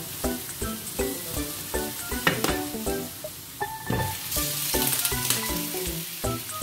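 Gyoza sizzling as they fry in a pan, the sizzle growing louder about four seconds in. Background music with a steady beat plays throughout.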